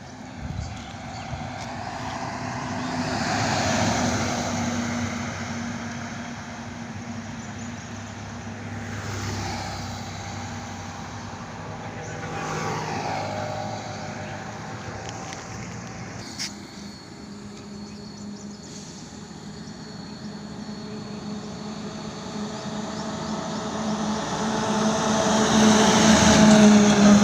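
Road vehicle noise: a steady engine drone, with vehicles swelling past several times, the loudest near the end. A single sharp click about sixteen seconds in.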